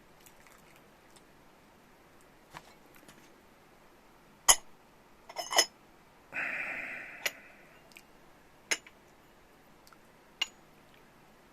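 Tableware being handled: scattered sharp clinks and knocks of cups, lids or dishes being set down, the loudest about four and a half seconds in, with a short noisy rustle of about a second a little after six seconds.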